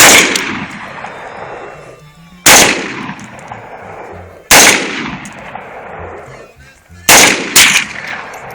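A rifle fired five single shots, roughly two seconds apart, with the last two close together. Each shot is a sharp crack followed by a long, fading echo.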